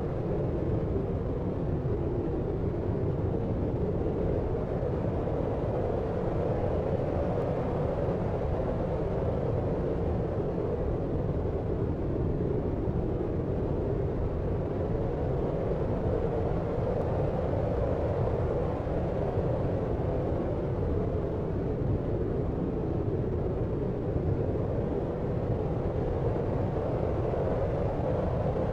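Steady deep noise, muffled and rumbling, like brown noise, with no separate sounds standing out of it.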